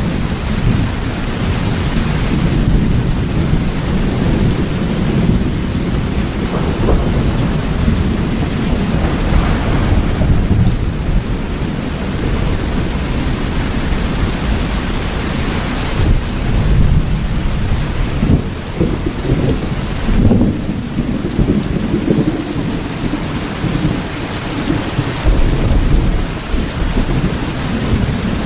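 Steady heavy rain, with a deep rumble running underneath.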